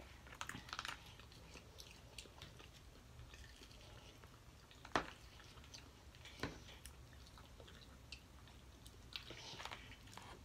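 Quiet close-up sounds of people eating a seafood boil: chewing and mouth sounds, with a few sharp clicks, the loudest about five seconds in and another about a second and a half later, over a low steady hum.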